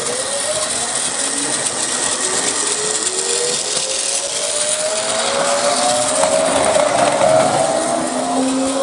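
Electric train accelerating: the traction motors and inverter whine in several tones that rise steadily in pitch over the rumble of the wheels, growing loudest about seven seconds in.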